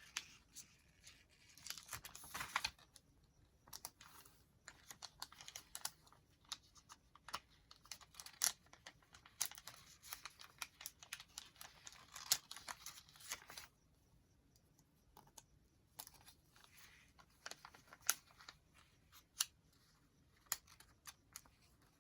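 Faint handling of paper journal pages and small craft items: scattered small clicks and taps, with paper rustling about two seconds in and again from about ten to thirteen seconds.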